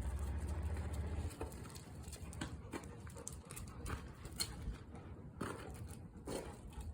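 Irregular light footsteps of people and dogs walking, with a low rumble in the first second.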